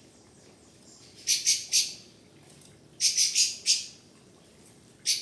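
A bird calling: short, harsh, high chirps in quick groups of three or four, a group about every two seconds.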